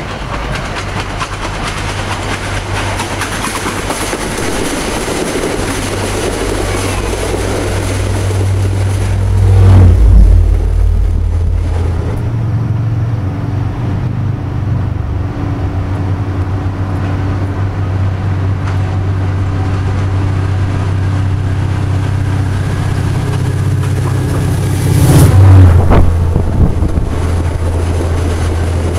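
MBTA commuter rail diesel locomotive running with a steady, low engine drone, swelling louder twice: about ten seconds in and again about twenty-five seconds in.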